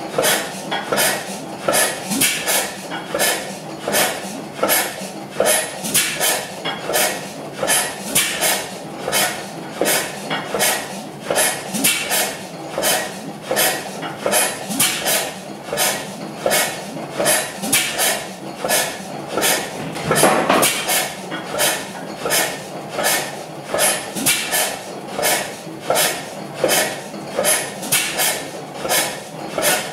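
Crossley slide-valve stationary gas engine running, its valve gear clattering in an even beat of metallic clicks, about two a second. About two-thirds of the way through comes one louder, fuller burst.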